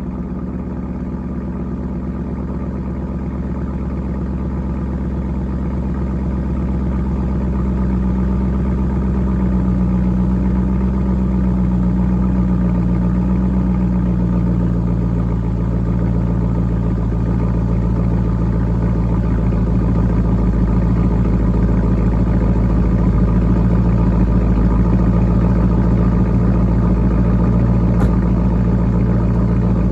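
LS1 5.7-litre V8 of a Camaro Z28 idling steadily just after start-up through a muffler-delete exhaust. It has a deep, raspy burble that grows slowly louder over the first ten seconds and then holds even.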